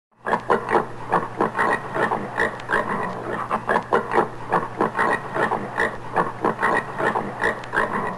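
Common warthog grunting in a rapid series of short, pig-like grunts, about three or four a second, over a low steady hum.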